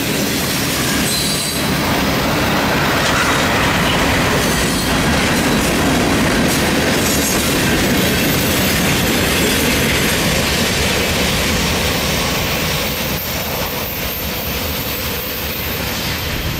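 Freight cars of a passing train rolling by, their steel wheels clattering and rumbling steadily on the rails, easing slightly near the end as the last cars approach.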